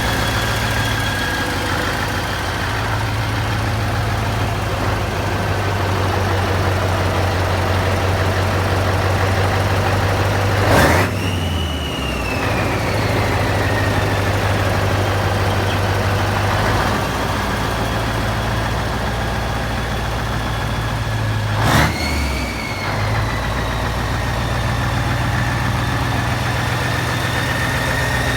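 Scania 140's V8 diesel engine idling steadily. Twice, about eleven seconds apart, a sudden sharp burst cuts through, each followed by a whistle that falls in pitch over a few seconds.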